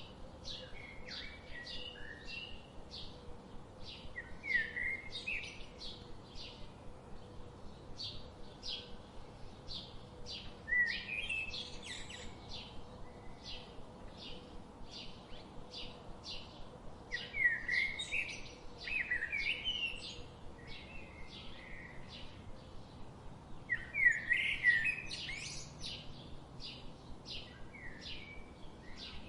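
Birds chirping: a steady run of short high chips about two a second, with several louder warbling song phrases breaking in now and then, the loudest about three quarters of the way through.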